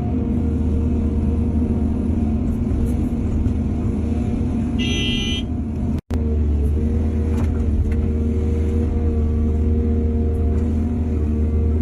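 Heavy diesel earthmoving machinery running steadily, with a short horn toot about five seconds in. The sound drops out for an instant about a second later.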